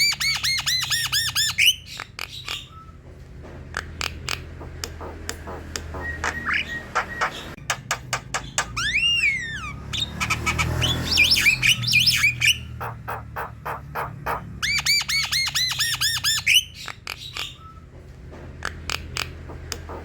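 Javan myna (jalak kebo) song: runs of sharp dry clicks alternating with quick bursts of repeated arching whistled notes, and one long rising-then-falling whistle about halfway through. A steady low hum runs underneath.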